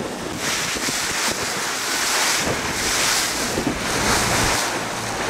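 Wind buffeting the microphone and water rushing past a moving tour boat, rising and falling in repeated surges.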